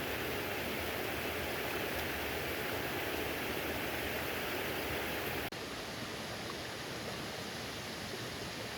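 Steady rush of a flowing stream, dropping slightly in level about five and a half seconds in.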